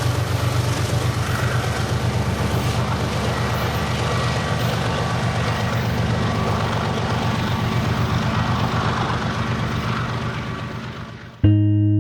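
Diesel freight train passing, its engine drone and rolling noise steady, then fading away near the end, when guitar music cuts in abruptly.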